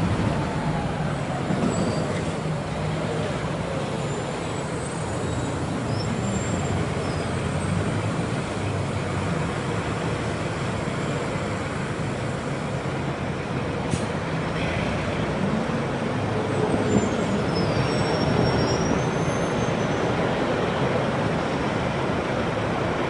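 Agrale MT 17.0 LE city bus's four-cylinder diesel engine running steadily as the bus drives, with faint high squeaks and a single click about two-thirds of the way through.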